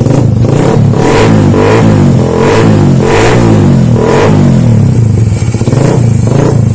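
Suzuki Satria FU 150's single-cylinder four-stroke engine breathing through a Kawahara aftermarket exhaust, revved up and down in a series of quick blips, then settling back toward idle near the end. The throttle blips are a test of the new muffler's note.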